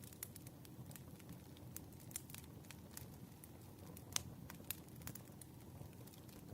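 Wood fire burning, the logs crackling with irregular sharp pops over a faint low rumble of the flames; the sharpest pop comes about four seconds in.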